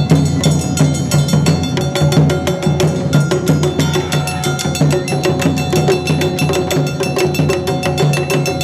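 Awa Odori festival band (narimono) playing: a rapid, steady run of metallic and wooden strikes over a low taiko drum beat, with sustained ringing tones above.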